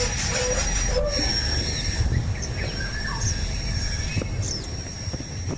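Outdoor bird chirps: scattered short, quick calls over a steady high-pitched drone and a low background rumble.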